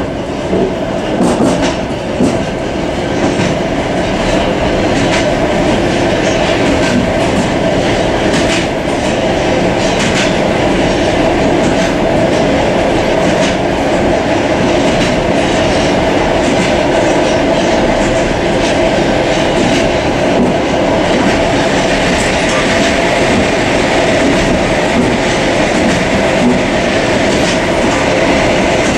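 Suburban passenger train running at speed, heard from inside the end vestibule of a carriage: a steady loud rumble of wheels on rail with a constant hum, and irregular sharp clicks from the wheels, more of them in the first half.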